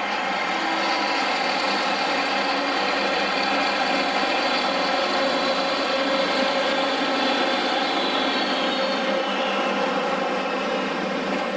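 Diesel locomotive engine running steadily with a droning, many-toned hum, swelling slightly midway.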